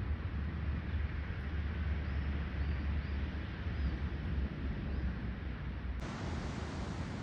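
Outdoor ambience of wind buffeting the microphone over the wash of sea surf, with a few faint bird chirps in the middle. The background changes abruptly about six seconds in.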